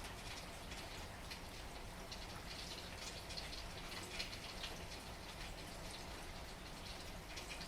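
Steady rain with many close raindrops ticking and pattering, over a steady low rumble.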